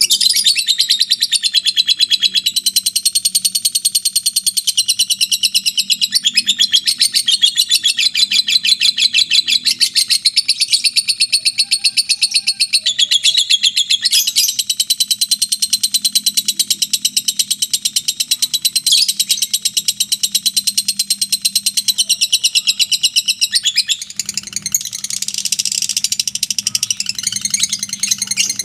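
Lovebird singing 'ngekek': a long, rapid, high chattering trill kept up almost without pause, broken only by a few short gaps. This is the extended ngekek song that lovebird keepers prize as a sign of a bird in top singing form ('gacor').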